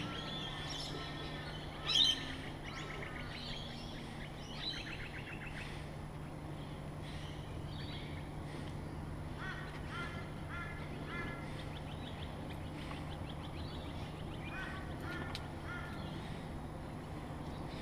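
Several wild birds calling at dawn: scattered chirps and whistled notes, one louder call about two seconds in, and short runs of quickly repeated notes around the middle and again later. A steady low hum runs underneath.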